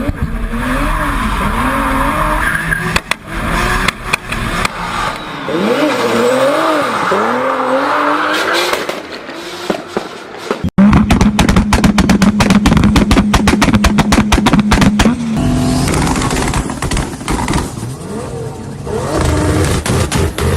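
Toyota Supra's turbocharged straight-six being revved, the pitch rising and falling in repeated blips. About halfway through it turns much louder, held at a steady high pitch with rapid crackling from the exhaust, then easing off and revving again near the end.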